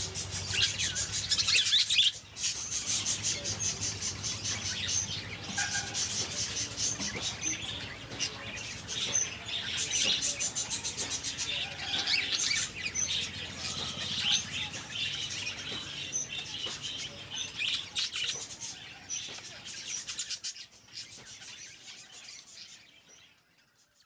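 Birds chirping: a dense, continuous run of short, high-pitched chirps that fades out over the last few seconds.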